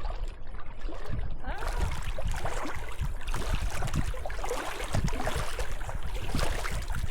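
Lakeside outdoor noise: wind rumbling on the microphone over lapping water, with scattered faint high chirps and small knocks.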